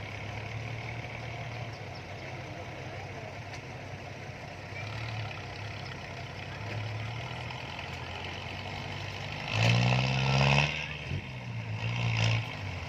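A heavy vehicle's engine idles steadily. It is revved hard for about a second, rising in pitch, about ten seconds in, and revved again briefly near the end.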